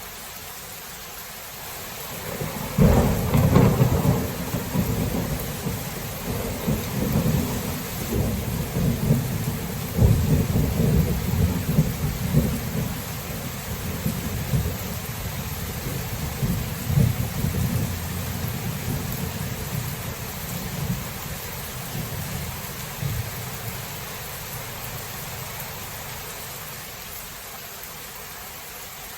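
Steady rain with a thunderclap breaking about three seconds in, then a long low rolling rumble of thunder that swells twice more before fading away.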